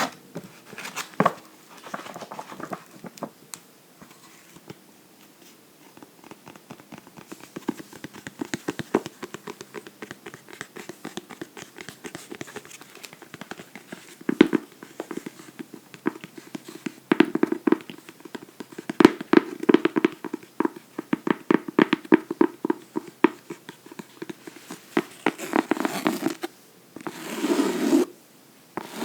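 Fingernails tapping and scratching on a book in quick runs of sharp clicks, busier and louder in the second half, with a short swish near the end.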